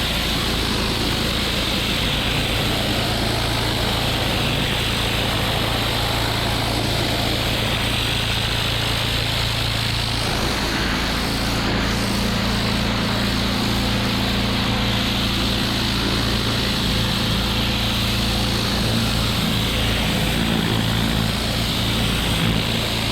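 Gas-engine pressure washer running steadily under load, with the hiss of the water spray over the engine drone; the engine's note shifts slightly about ten seconds in.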